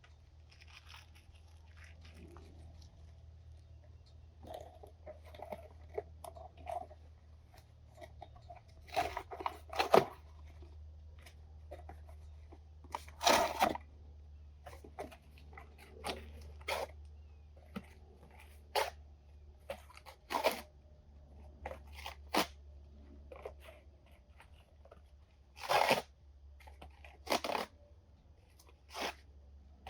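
Irregular crunching and tearing as material is handled in a compost bin. The sharp bursts come at uneven intervals, the loudest about a third of the way in, over a steady low rumble.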